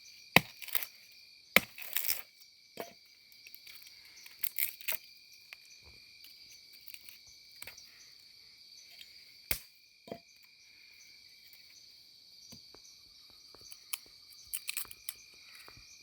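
Crickets chirping steadily in a night-time campsite, with scattered sharp clicks and snaps, a few of them loud, from people working close to the microphone.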